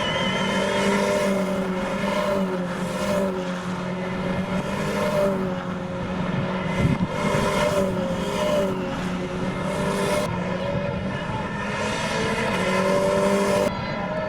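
Renault Clio Cup race cars' engines running on the circuit, several engine notes wavering slightly in pitch. The sound changes abruptly near the end.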